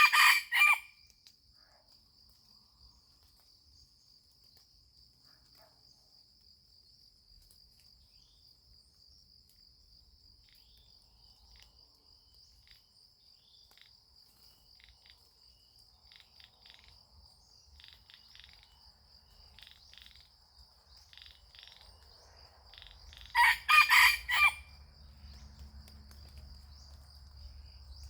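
A junglefowl rooster crowing twice, once right at the start and again about 23 seconds in, each crow a short broken call of a few parts. A steady high insect drone runs underneath.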